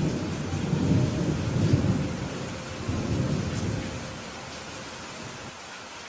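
Rolling thunder over steady rain: a deep rumble swells right at the start, surges again about three seconds in and fades away, leaving the even hiss of rainfall.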